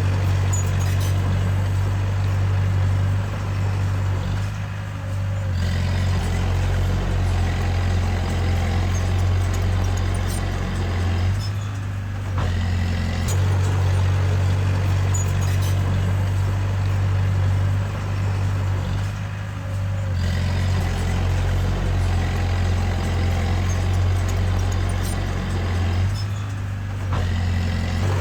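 Diesel engine of a small Komatsu D20A bulldozer running hard, a steady low drone that eases off briefly about every seven seconds.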